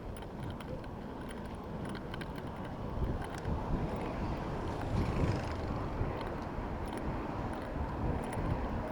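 Wind buffeting the microphone during a bicycle ride in city traffic: a steady low rumble, with a hiss that swells about five seconds in, as of a vehicle passing close.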